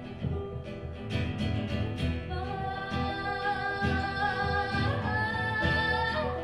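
Acoustic folk band playing: guitar, double bass, banjo and percussion keeping a steady beat, with a woman singing. About two seconds in she holds one long note with vibrato until near the end.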